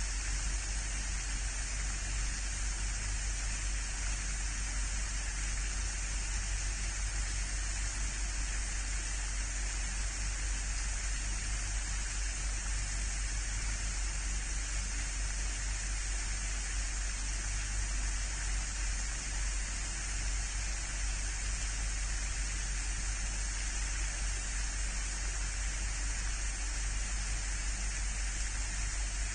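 Steady, even hiss with a low hum underneath, unchanging and without distinct events.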